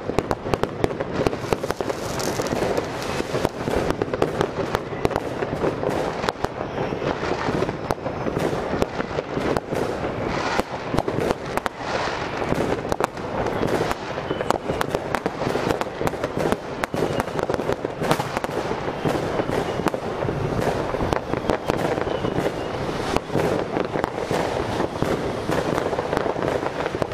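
Fireworks going off without a break: the steady rushing hiss of a Weco Outbreak ground fountain spraying sparks, mixed with frequent sharp bangs and crackles from other fireworks.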